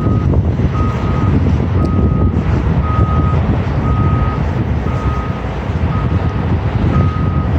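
A heavy vehicle's reversing alarm beeps steadily, about once a second, over the low rumble of a heavy truck engine working under load as it backs up to pull the ditched log truck out on a chain.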